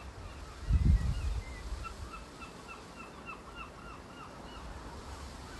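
A bird calling a quick run of short, arching notes, about three a second, from about two seconds in. Wind buffets the microphone in a brief loud gust about a second in.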